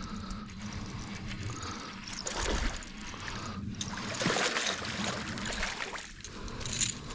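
A hooked bass splashing and thrashing in shallow water as it is reeled in to the bank, with irregular louder splashes over a steady wash of water noise.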